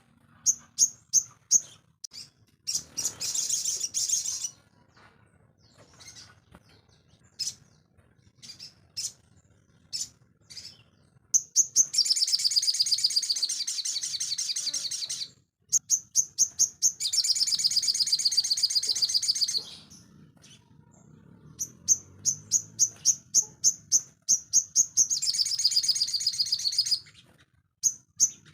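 A sogon, a small songbird, singing. It gives runs of short high chirps, broken by several long, rapid chattering song phrases of two to four seconds each.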